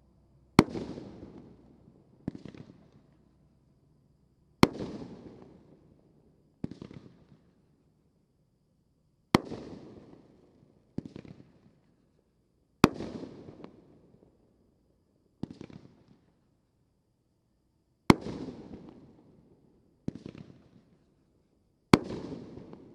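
Consumer firework going off in a series of sharp bangs: six loud reports, each followed about two seconds later by a softer one, and each bang trailing off over about a second.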